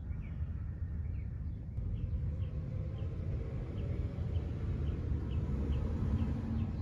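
A small bird chirping over and over, about two short chirps a second, over a steady low outdoor rumble.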